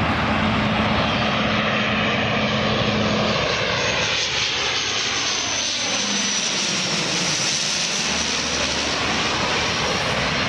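Airliner engines running as the aircraft passes low overhead on approach. A low steady hum drops out about three seconds in, then the noise takes on a sweeping, phasing quality as the aircraft goes over.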